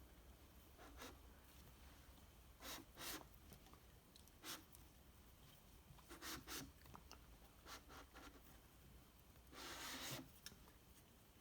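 Faint, scattered handling noises: about eight short scrapes and clicks, with a longer scrape near the end, as hands work on parts of the engine being rebuilt.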